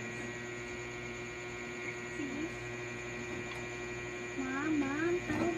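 Steady electrical hum. A few short wavering pitched sounds come about two seconds in and again near the end.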